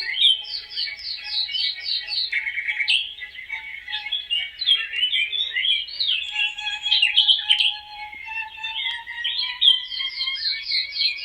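Several birds singing at once, a dense chorus of chirps and whistles with fast runs of repeated down-slurred notes near the start and again near the end. A faint held tone sits under the song about midway through, slowly rising.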